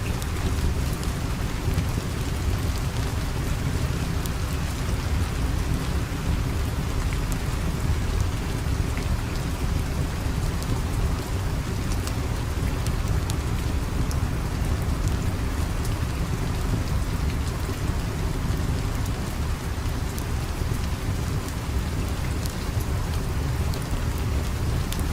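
Steady rain falling, an even hiss over a deep continuous rumble, with scattered faint ticks through it.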